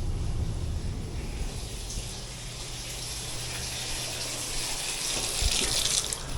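Hot water being poured into an air handler's condensate drain line to flush it. The steady pouring splash grows louder and brighter toward the end.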